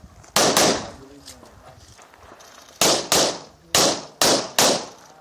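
9mm Glock 34 pistol fired rapidly: a quick pair of shots, a pause of about two seconds, then five more shots in quick succession.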